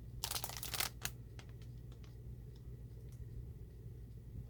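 A paper-craft journal with chipboard pages being handled: a short rustle about a quarter second in, then a click and a few light taps.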